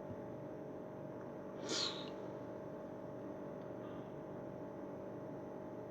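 A steady low hum, with one brief hiss a little under two seconds in.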